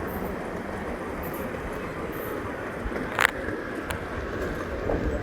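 Train carriage rolling along the track with a steady rumble. A sharp click comes about three seconds in, and a fainter one just under a second later.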